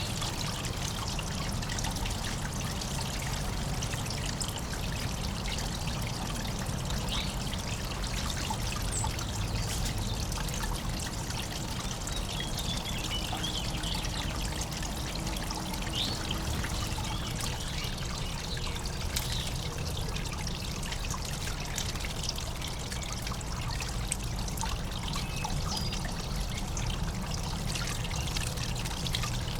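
Water trickling and pouring steadily, as in a bird bath with moving water, with a few faint short high chirps over it.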